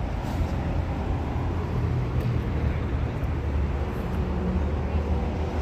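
Steady low rumble of car engines and traffic, with faint pitched engine hum.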